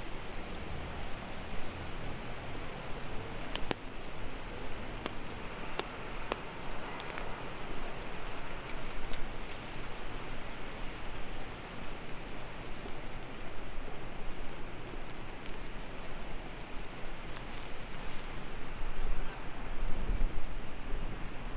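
Steady rain hissing on wet pavement, with scattered drops ticking sharply on an umbrella overhead.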